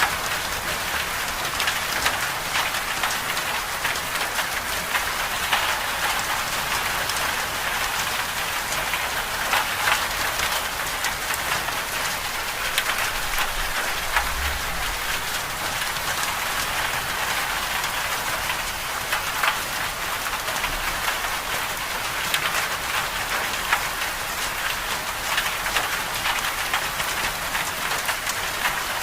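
Winter storm precipitation falling steadily on a surface: a constant hiss dotted with many small pattering ticks.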